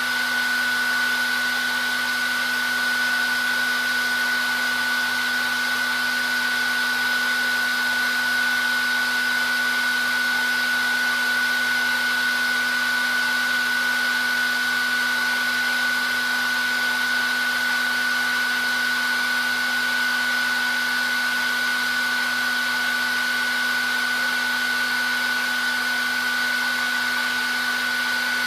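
Hair dryer running steadily on one setting: a continuous blowing rush with a constant high whine from the motor and fan, and a lower steady hum beneath.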